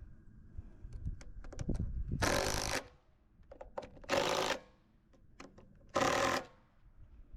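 A power tool run in three short bursts about two seconds apart, each a loud rattling buzz lasting about half a second, with scattered clicks and knocks in between.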